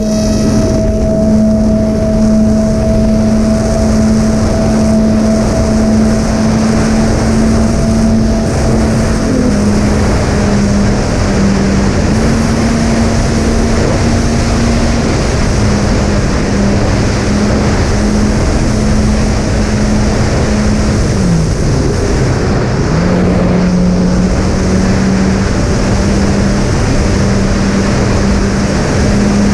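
Twin Sunnysky 2212 brushless motors with 7-inch props on a Reptile Dragon fixed-wing drone, running at steady flying throttle over heavy wind noise. Two close whining tones step up and down a little with throttle changes. Around two-thirds of the way in, the pitch briefly drops and then comes back.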